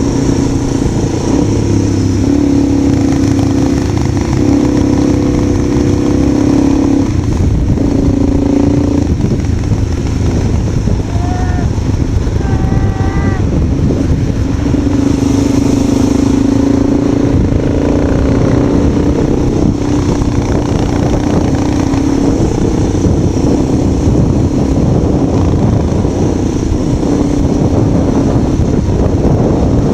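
Motorcycle engine running steadily under way, its note shifting slightly with the throttle, with heavy wind buffeting on the microphone.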